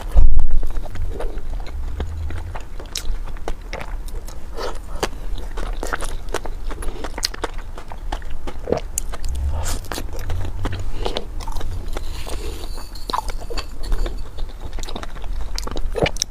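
Close-miked eating sounds: someone chewing sticky rice, with frequent irregular wet clicks and smacks. A loud thump comes about half a second in.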